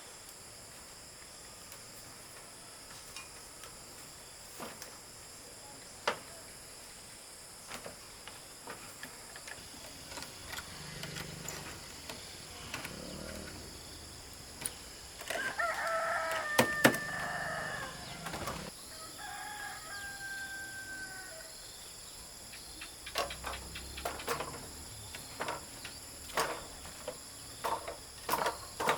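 A rooster crows once, a long call of about three seconds midway through, followed by a shorter call. Under it runs a steady high insect drone, and scattered clicks and knocks come thicker near the end.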